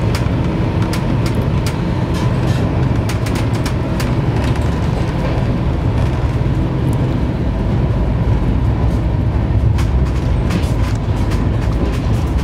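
Running noise inside a moving LHB passenger coach of an Indian Railways express: a steady low rumble from the wheels on the track, with frequent small clicks and rattles and a faint steady whine.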